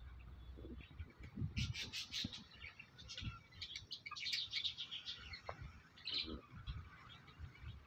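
Small birds chirping in quick clusters of short, high notes, with a few soft low thumps underneath.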